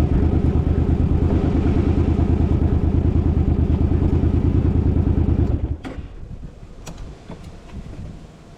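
Suzuki's engine running steadily with an even pulse, then shut off suddenly a little over halfway through; a few faint clicks and knocks follow.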